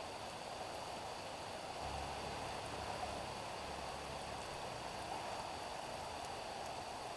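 Steady rain falling on a street, an even hiss with faint scattered drop ticks. A low rumble comes in about two seconds in and fades out about three seconds later.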